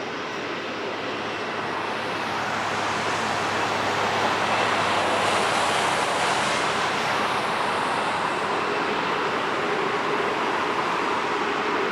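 Jet airliner engines roaring as the aircraft passes close by. The roar swells over the first few seconds, peaks with a strong hiss about five to six seconds in, then stays loud and a little duller.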